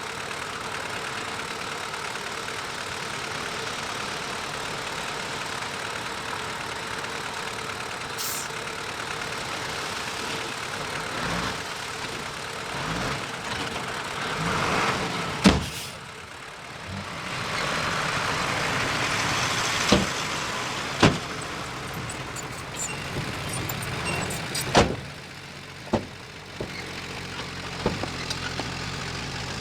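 Heavy earthmoving machine's diesel engine running steadily, swelling in loudness twice in the middle. Several sharp knocks or clanks come in the second half.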